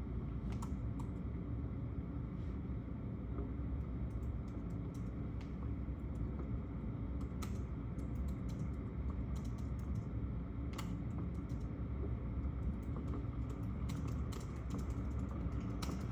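Computer keyboard typing: irregular bursts of short key clicks over a steady low rumble.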